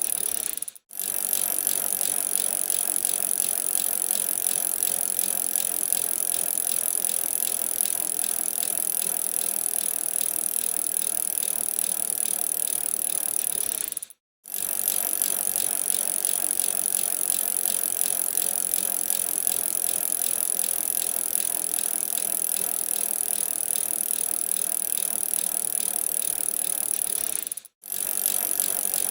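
A bicycle being ridden: steady tyre and road noise with the rattle of the bike's loose parts. The sound breaks off briefly three times.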